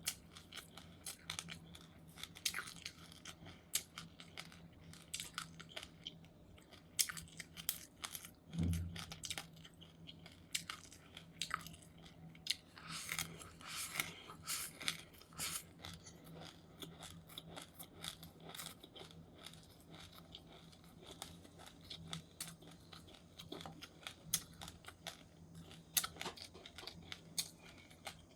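Close-up chewing of crunchy seeds: many irregular sharp crunches and crackles in quick succession, with one low thump about eight and a half seconds in and a faint steady hum underneath.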